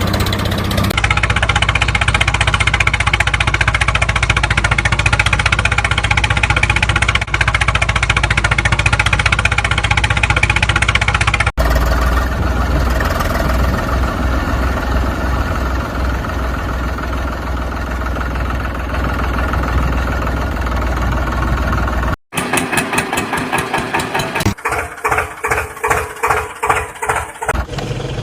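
Tractor engines running, in several separate clips with abrupt cuts between them. Near the end an engine chugs with an uneven pulse of about three beats a second.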